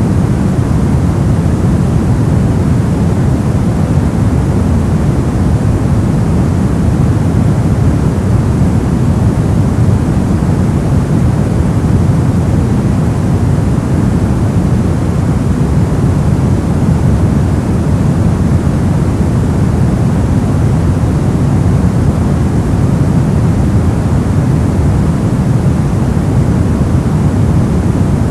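Brown noise: a steady, loud, deep rumbling hiss, weighted toward the bass and falling off in the treble, with no changes or events.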